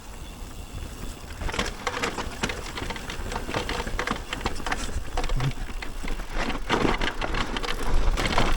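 Mountain bike riding down a rough dirt trail: tyres crackling over stones and roots, and the bike rattling in a dense run of clicks that picks up about a second and a half in, over a low wind rumble on the microphone.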